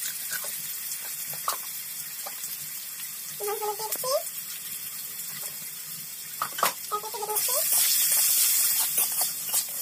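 Potato slices sizzling in hot oil in an iron kadai: a steady high hiss with a few scrapes of the metal spatula, growing louder about seven seconds in as the slices are stirred.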